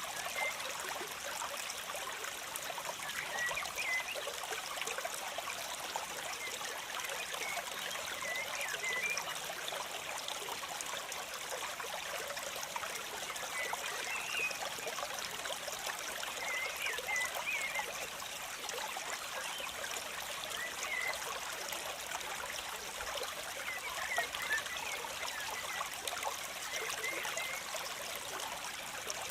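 Steady trickling, splashing water, as of a small stream, with faint short chirps every few seconds.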